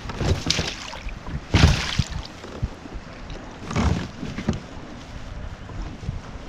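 Wind noise on the microphone, with several short rustling, bumping bursts from handling on the kayak. The loudest burst comes about one and a half seconds in, and another comes near the four-second mark.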